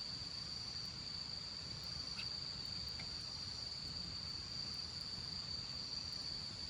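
Crickets calling in a steady, unbroken high trill, with a low steady rumble underneath and a couple of faint ticks near the middle.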